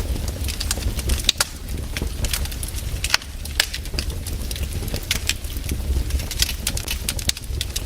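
Wood fire crackling: irregular sharp pops and snaps, several a second, over a steady low rumble of the burning fire, with a couple of louder pops in the first few seconds.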